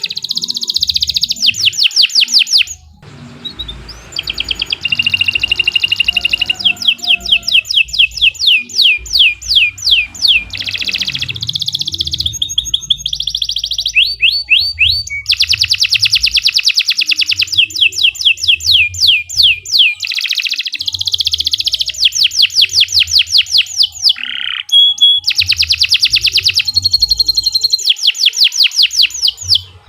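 Domestic canary singing long, loud phrases of fast trills, each a rapid run of evenly repeated sweeping notes, with a few short pauses between phrases.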